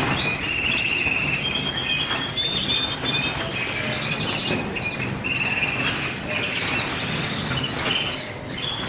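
A chorus of small caged birds chirping and trilling over one another, with a fast trill about four seconds in.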